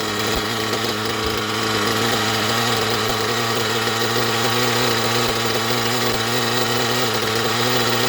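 OFNA Hyper 3-port turbo nitro engine in a Hyper 7 buggy idling steadily on a rich tune, its idle raised to keep it running.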